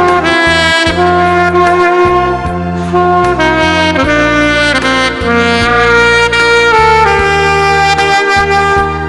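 Saxophone playing a slow, sustained melody over a backing accompaniment with bass and chords.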